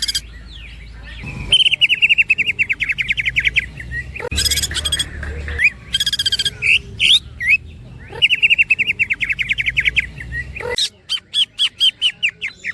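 Green leafbird (cucak ijo) singing: two long, fast trilled rattles of quick repeated notes, with short harsh chattering calls between them, and a slower run of separate notes near the end.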